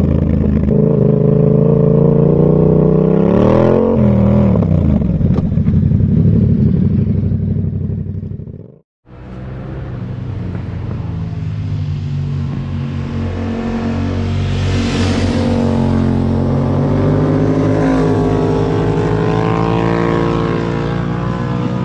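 Yamaha MT-07's parallel-twin engine through a Zard exhaust while riding: revs rise and fall a few seconds in, the sound drops out briefly about nine seconds in, and then the engine pulls steadily up through the revs.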